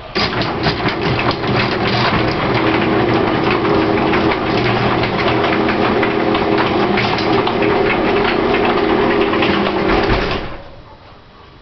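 Electric garage door opener motor running with a steady hum as the door closes, the door rattling and shaking along its track on the way down; it stops about ten and a half seconds in with a low thump as the door meets the floor. The shaking near the top and a catch in the middle are a fault the owner can't explain, despite new springs and cables.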